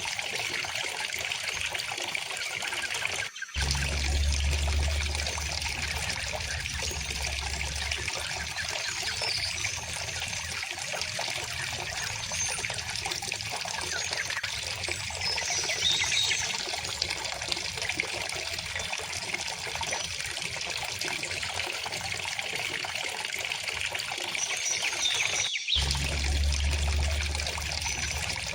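River water running and trickling steadily, with faint bird chirps here and there. The sound cuts out for an instant twice, about three seconds in and near the end, each time followed by a few seconds of low rumble.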